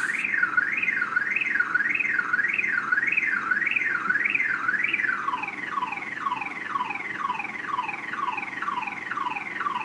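Toyota Tundra pickup's alarm siren sounding loudly: a tone warbling up and down, somewhat under twice a second, that switches about halfway through to a fast run of falling sweeps. The alarm is set off by a flat battery that has just enough charge to power the alarm and nothing else.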